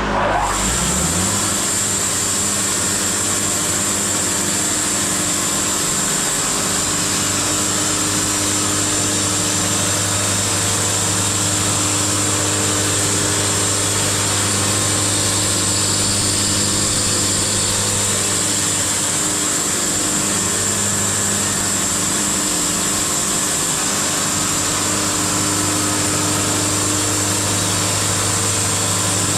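Wood-Mizer LT70 sawmill running steadily, its engine holding a constant low hum under a broad, even hiss.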